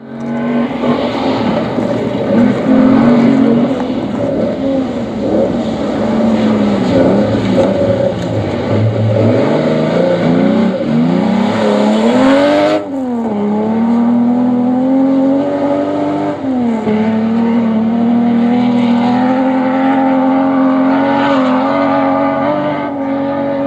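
Rally car engine running hard at high revs, its pitch climbing and dropping with throttle and gear changes. An abrupt cut about halfway through leads into another stretch held at high revs with one short dip.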